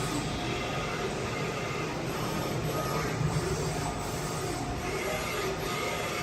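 CNC vertical machining center running: a steady mechanical rumble with faint high tones over it.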